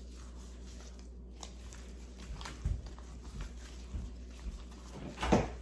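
Raw beef being mixed by hand with salt and oyster sauce: soft, wet squishing and patting sounds. There is a louder knock near the end.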